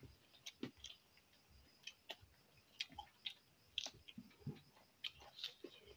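Faint chewing and lip smacks of people eating mutton curry and rice by hand, heard as irregular soft clicks and smacks.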